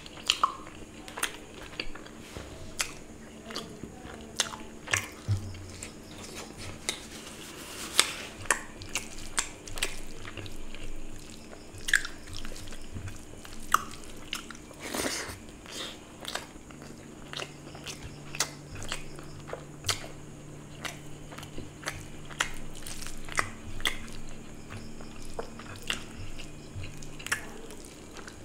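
Close-miked chewing and wet mouth sounds of a man eating curry and rice by hand, with many sharp smacking clicks throughout.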